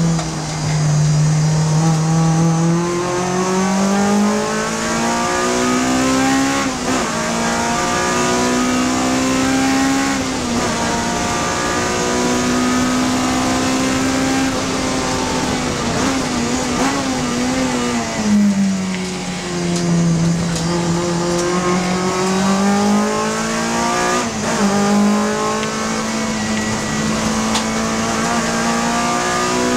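Honda Civic Type R (FD2) race car's four-cylinder engine driven hard, its pitch climbing in steps through gear changes, holding high revs for long stretches, and falling away under braking and downshifts about halfway through before climbing again.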